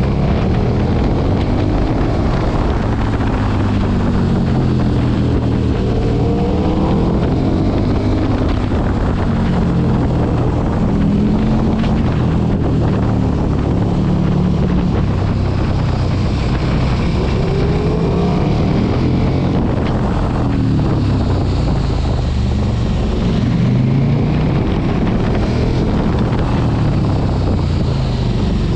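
Motorcycle engine running at speed, its pitch rising and falling again and again as it revs up and eases off, with heavy wind noise on the microphone.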